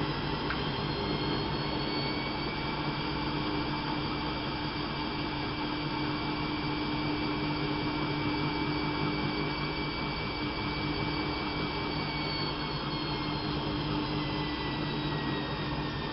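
Bauknecht WAP 6460 washing machine running, its motor and drum giving a steady whir with a low hum. A high motor whine rises a little in pitch near the start, holds, and falls away over the last few seconds, as the drum speed changes.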